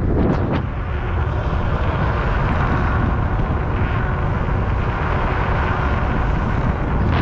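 Steady wind rush over the microphone with road noise from a fat-tire e-bike riding along, a deep, even rumble.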